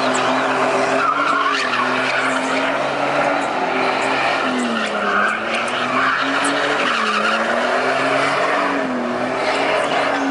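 A car doing a burnout, its tires squealing without a break while the engine is held at high revs, its pitch rising and falling. The tires are being spun until they wear through.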